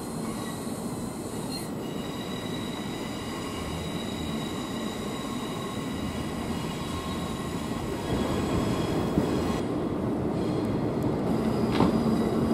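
Electric multiple-unit trains running over curved pointwork, their wheels squealing thinly and steadily above the rumble of the rails. The rumble grows louder about two-thirds of the way in as a train draws near, and there is a sharp knock near the end.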